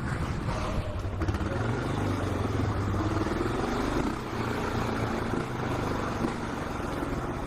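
Honda XR600R supermoto's big single-cylinder four-stroke engine running under way. Its note rises for a few seconds and drops off about four seconds in, over wind rush.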